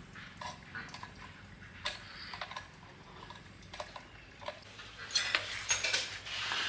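Small metal parts and hand tools clinking and clicking as they are handled, a sparse tap every half second or so, then a denser run of clinks and scraping from about five seconds in.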